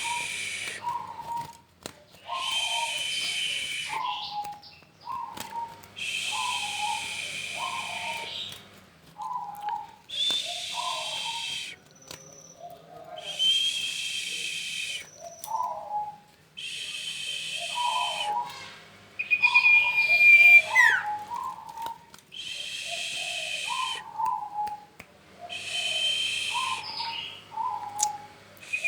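Songbird of the kind bird-keepers call 'sirfu' singing in full voice ('gacor'): long, high whistled notes with a hissing edge, each about a second and a half, repeated every three seconds or so, with short lower chirps in pairs between them. One note near the middle ends in a falling glide. This is the kind of song used as a lure to set off a rival bird.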